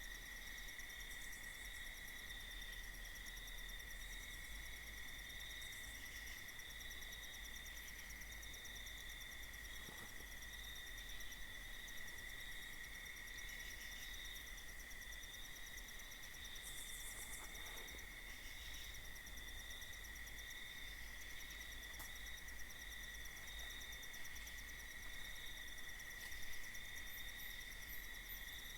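Faint nighttime insect chorus: a steady, unbroken high trilling of crickets in the woods, with a few soft ticks or rustles here and there.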